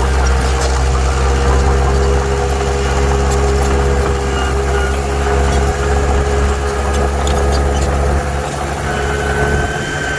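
Heavy earthmoving machine's diesel engine running steadily with a deep drone, easing off slightly near the end.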